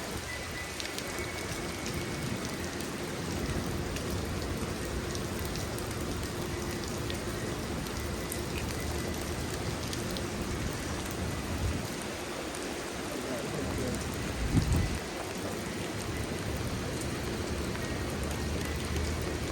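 Steady rain falling and splashing on the street, with a brief low rumble about three-quarters of the way through.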